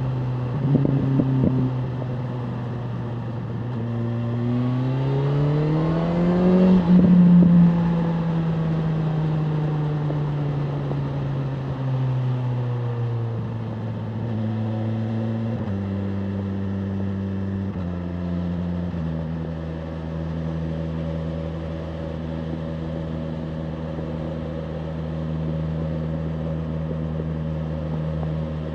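BMW M1000R Competition's inline-four engine under way. It crackles in the first second or two, then revs climb for about three seconds and fall away slowly. The pitch steps between gears a few times around 16 to 19 seconds, and the engine then holds a steady cruise.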